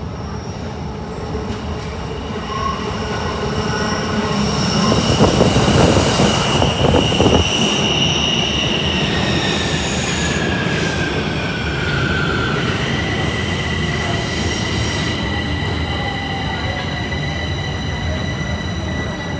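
Bombardier metro train pulling into a station, its wheels squealing over a rumble that is loudest about a third of the way in as the cars pass. High whining tones run throughout, one sliding down in pitch past the middle as the train slows to a stop.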